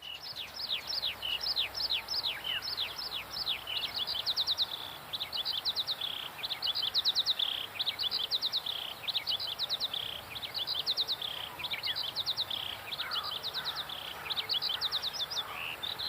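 Songbirds singing, several at once: a dense run of fast repeated trills and quick down-slurred notes.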